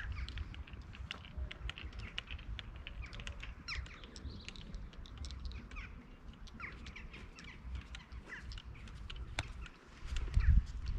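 Small birds chirping in many quick short calls, with wind rumbling on the microphone that grows louder near the end, and one sharp click about nine seconds in.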